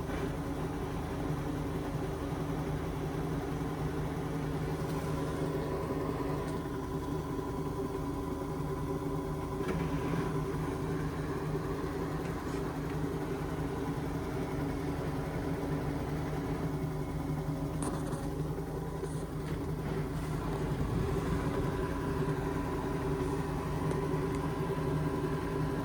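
Indesit washing machine in the final spin of its Express wash cycle, a steady motor hum with drum whirr holding an even speed.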